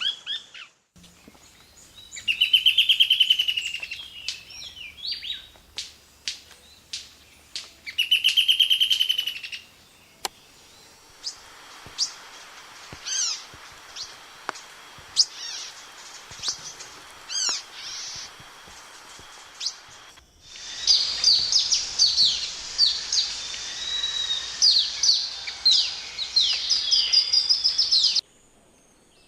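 Wild birds singing and calling in several short recordings strung together: two rapid trills a few seconds apart, then scattered short chirps, then a dense run of calls that cuts off suddenly near the end.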